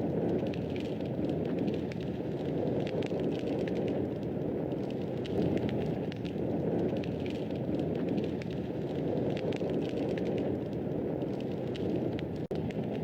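Fire crackling in a fireplace: a steady low rush of flames with frequent small, sharp crackles and pops. There is a momentary drop-out near the end.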